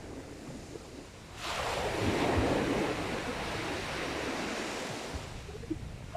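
Sea waves on a beach: a wave breaks suddenly about a second and a half in, then washes up and slowly subsides over several seconds. Wind buffets the microphone.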